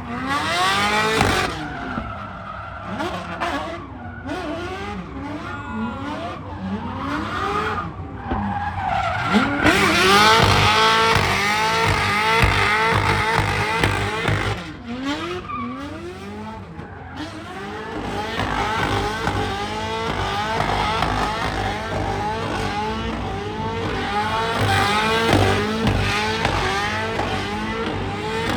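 Drifting cars: engines revving up and down over and over, with tyres squealing as they slide.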